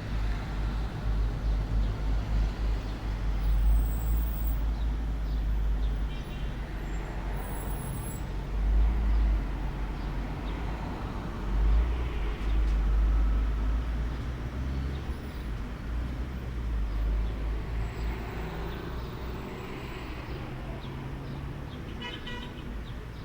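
Outdoor ambience dominated by a steady, fluctuating low rumble, with a few faint, brief higher-pitched sounds scattered through it.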